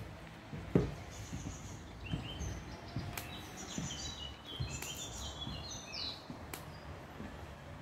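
Several small songbirds chirping and twittering in high, short notes, with a quick pulsed trill heard a couple of times. Underneath runs a low rumble with scattered soft thumps, and one sharp knock a little under a second in.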